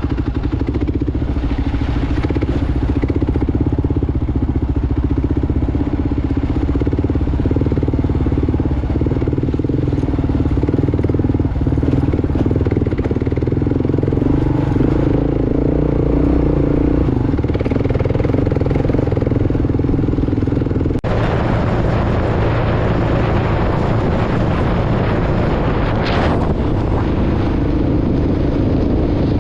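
Motorcycle engine running steadily as it is ridden along a rough dirt road. About two-thirds of the way through, the sound changes abruptly and a rushing noise comes in over the engine.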